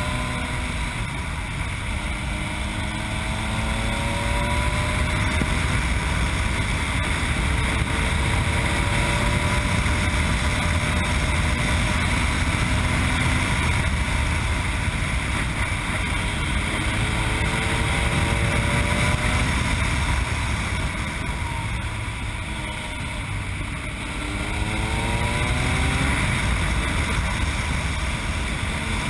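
Yamaha MT-09's three-cylinder engine through an Akrapovič exhaust, heard on board while riding: the engine climbs in revs several times, rising in pitch, with steadier cruising stretches between. Heavy wind rumble on the microphone runs underneath.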